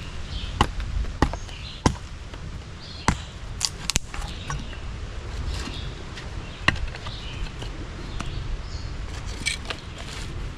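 Knife splitting small pieces of wood into splinters: sharp, irregular knocks and cracks of wood giving way, about eight of them, with brief crackling between.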